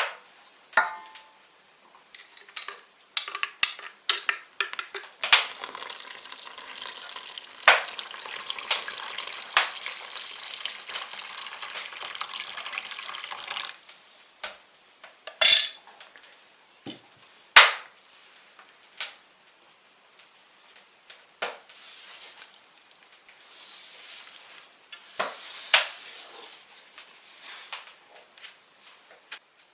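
Kitchen food preparation: dishes and utensils knocking and clinking, with about eight seconds of steady stirring in a bowl early on and a few sharp clacks after it.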